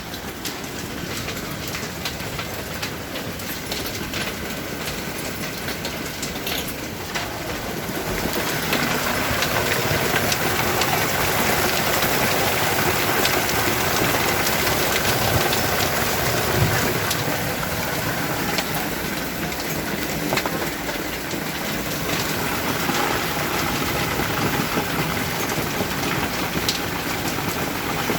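Hail coming down hard in a storm: a dense clatter of countless small impacts over a steady hiss, getting louder about eight seconds in.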